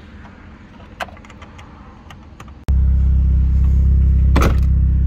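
Faint clicks of hands tightening a plastic taillight fastener, then, after a sudden cut about three seconds in, the steady low rumble of the tuned Audi TTS's turbocharged four-cylinder engine idling, with one sharp click partway through.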